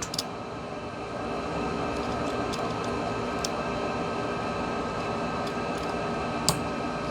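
Steady room hum with a thin, faint whine, and a few light clicks from small parts of a phone being handled as its main board is put back; the sharpest click comes about six and a half seconds in.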